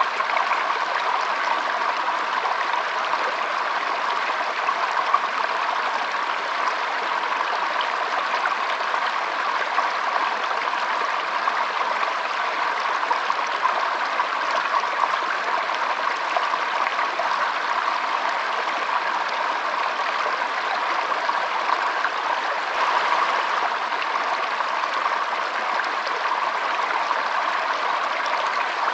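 A small stream running and trickling, a steady even rush of water.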